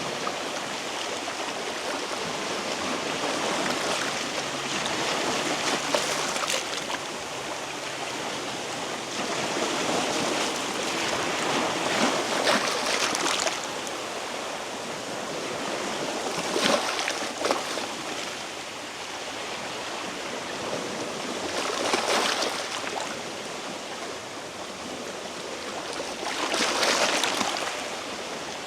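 Sea waves washing over shoreline rocks. Each surge swells and falls back every few seconds.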